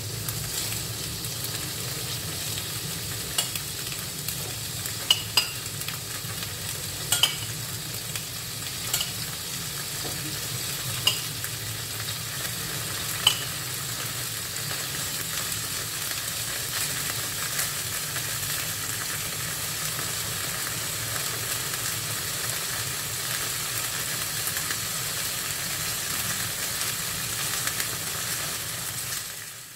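Cubes of tofu sizzling steadily as they fry in oil in a frying pan. Sharp clicks of metal tongs against the pan as the cubes are turned, about seven of them in the first dozen seconds.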